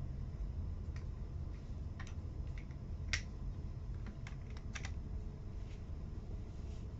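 Plastic toy building blocks being handled and pressed together: scattered light clicks, the loudest about three seconds in and a quick run of them just after four seconds.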